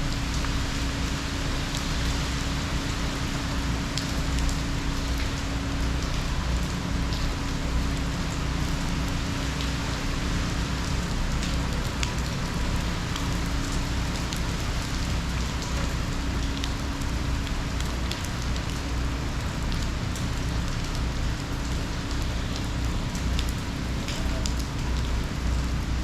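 Hurricane rain pouring steadily, with many scattered sharp drop impacts and a constant low rumble underneath.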